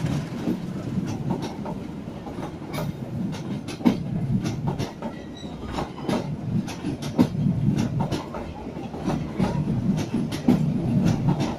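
Passenger coaches of a train rolling past at close range: a steady low rumble with an uneven run of sharp wheel clicks over the rail joints.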